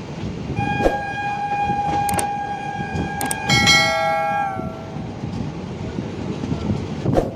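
Train horn sounding one long blast of about four seconds, with a second, lower tone joining near the end of it, over the steady rumble of a moving train. A few sharp clicks cut through the rumble.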